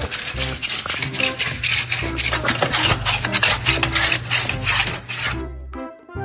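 Rapid rasping or scratching strokes, several a second, over music with a low bass line; the rasping stops about five seconds in, leaving only the music.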